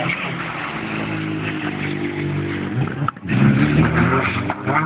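Rally car engine running hard as the car passes, with a brief break in the sound about three seconds in, after which it comes back louder and climbs in pitch as the car accelerates.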